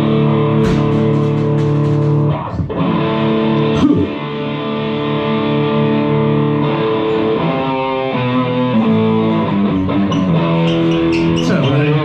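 Electric guitar played live, held chords ringing and changing every few seconds.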